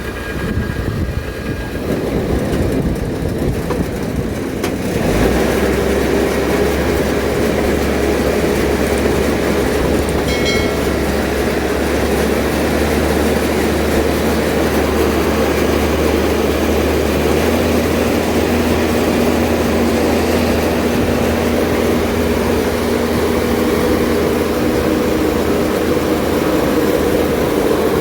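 Kubota DC70 combine harvester running hard in a rice field: a steady mechanical drone with a low hum, growing louder about five seconds in and then holding even.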